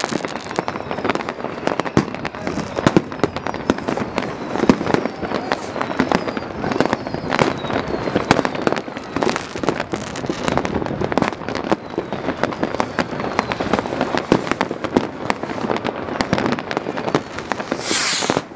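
Dense New Year's fireworks: a continuous barrage of firecracker and rocket bangs and crackles with no let-up, with a few faint falling whistles and a brief hiss near the end.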